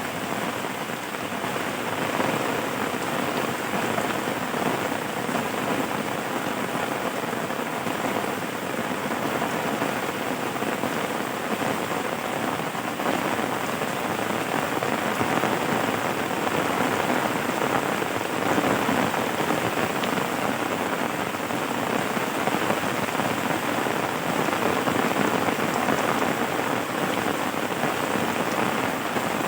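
Steady rainfall: a dense, even hiss of drops that holds constant, with no single loud events.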